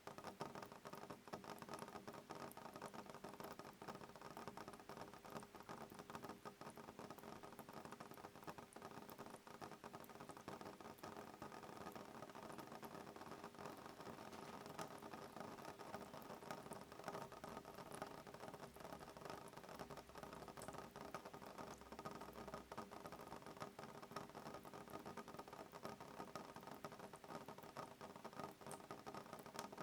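Soft rain pattering steadily on a window pane: a faint, even patter of many small drops, with no thunder.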